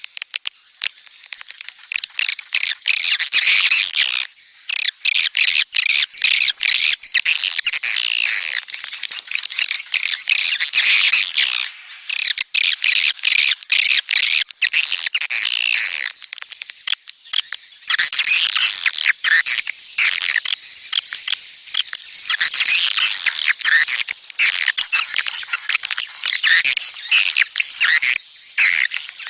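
Edible-nest swiftlets' calls, a dense, rapid chatter of clicky chirps and trills with a few short breaks. This is the courting and breeding call that is played to lure swiftlets into a nest house.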